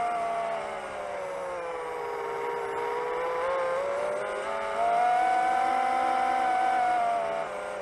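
Brushless motors of a 7-inch long-range FPV quadcopter whining in flight, the pitch sinking and rising slowly as the throttle is eased off and pushed up again.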